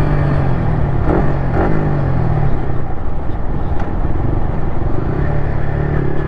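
Yamaha MT-15's 155 cc single-cylinder engine running through an aftermarket Akrapovic R1M replica full-system exhaust while the bike is ridden, its pitch shifting in the first couple of seconds and then holding steady. A steady rush of road and wind noise runs under it.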